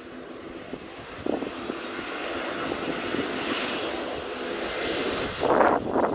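Jet engine noise from an Airbus A321neo's Pratt & Whitney PW1100G geared turbofans, a steady roar growing louder as the aircraft passes. Wind buffets the microphone near the end.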